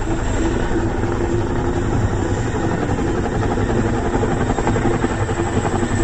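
Chinook tandem-rotor helicopter flying low and close at full power, its two rotors making a steady, fast, even chop.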